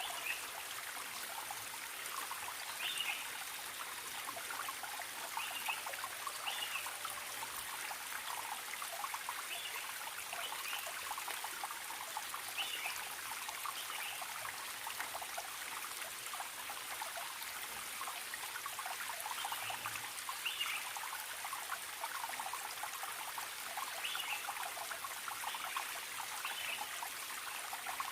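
A forest stream trickling and babbling steadily over stones, with a wild bird giving short high chirps every few seconds.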